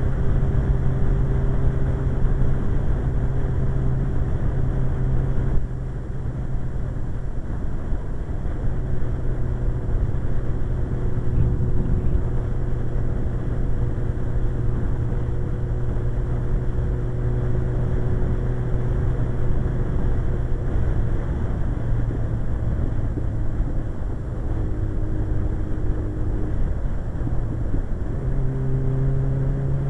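Suzuki GSX-R 1100's inline-four engine running at a steady cruise under way, with wind rush over it. The engine note eases slightly about six seconds in and climbs again near the end.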